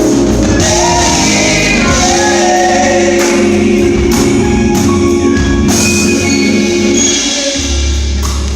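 Gospel music with voices singing over a band, with a steady beat of percussion strikes.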